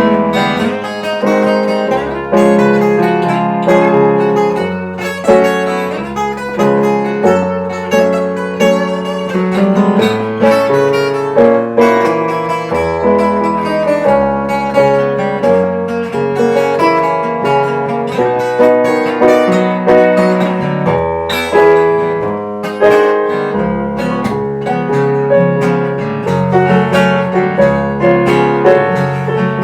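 Instrumental break in a slow blues song played by an acoustic string band: plucked guitar picking a run of notes over a low bass line that moves from note to note.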